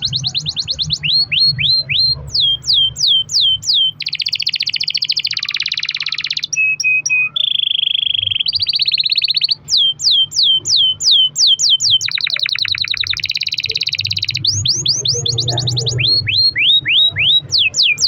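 A domestic canary singing a long continuous song: runs of rapid falling whistled notes, fast buzzing trills and a few held notes, one phrase after another without a break.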